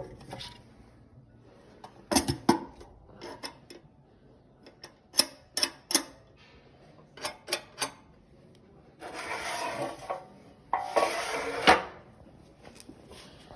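Metal parts of a cast-iron heating stove being handled: a run of sharp clanks and clicks, then two scraping slides, each about a second long, near the end.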